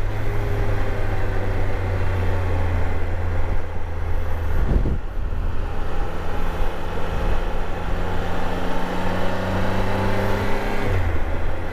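Motorcycle engine running under way in fourth gear on a winding road, with a steady low drone. About five seconds in the engine note briefly changes, then holds steady again with a slight rise in pitch.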